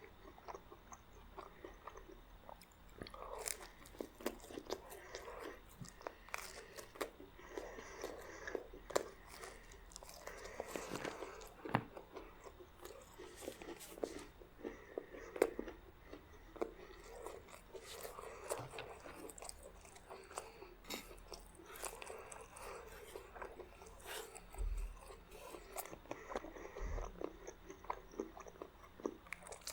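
Close-miked eating of meat spaghetti and garlic bread: continual biting and chewing with crisp crunches and many small sharp mouth clicks, and a couple of low bumps near the end.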